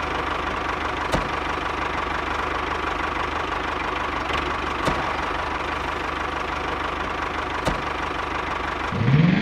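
Small DC motors of a homemade toy tractor and chaff cutter running steadily, a whirring hum with a faint whine and an occasional click.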